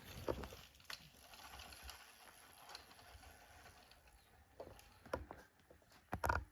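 Faint clicks and rattles of a mini bike being ridden over dirt, with two louder knocks about five and six seconds in.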